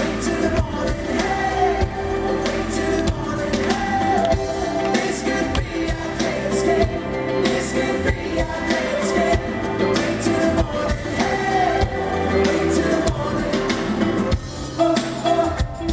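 Live pop-rock band music with a steady drum beat.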